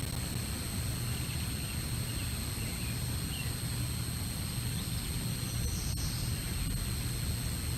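Outdoor nest-camera ambience: a steady low rumble with a thin, steady high-pitched whine over it. A few faint, short bird chirps come through, the clearest about six seconds in.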